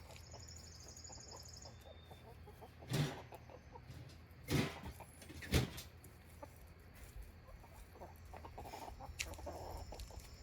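Backyard hens clucking softly, with three louder short thumps about three, four and a half and five and a half seconds in.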